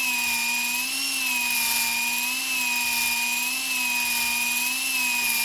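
Electric drill spinning a cylinder hone in an engine cylinder bore, running continuously with a steady whine whose pitch wavers gently about once a second as the hone is stroked up and down to lay a cross-hatch finish.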